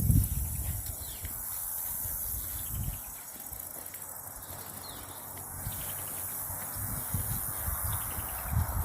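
A steady, high-pitched chorus of insects shrilling in the trees, with the walker's footsteps thudding and rustling over the woodland floor, the loudest thud just after the start.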